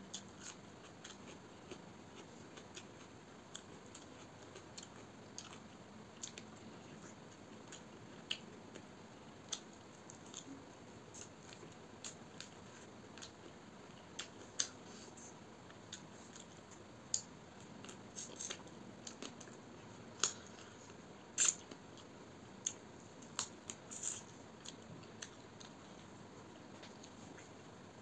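Close-miked eating of rice and chicken curry: wet chewing and biting, broken by scattered sharp clicks and crunches of teeth on chicken bone. The clicks come irregularly, about one a second, and grow louder and more frequent in the last third.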